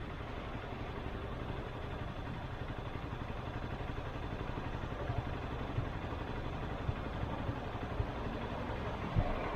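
Motorcycle engine running steadily under road and wind noise while riding, with a few brief light knocks in the second half, the strongest near the end.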